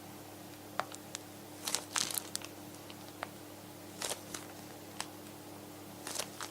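Kitchen handling sounds: scattered light clicks and short crinkling rustles, loudest in a cluster about two seconds in and again near the end, over a faint steady hum.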